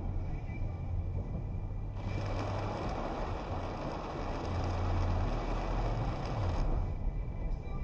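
Car driving in heavy rain, heard from inside the cabin: a steady low rumble of engine and tyres, with a louder hiss that starts suddenly about two seconds in and cuts off just as suddenly near the end.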